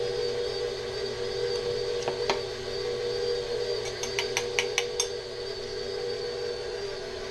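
Electric mixer running steadily while it mixes cookie dough, with a couple of sharp clicks about two seconds in and a quick run of about six clicks a second or so later.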